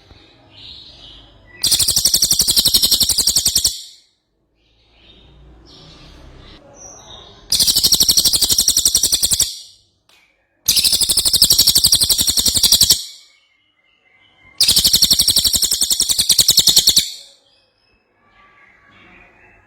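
Cililin songbird singing hard: four loud, very rapid, high trills of about two seconds each, with softer twittering notes between them.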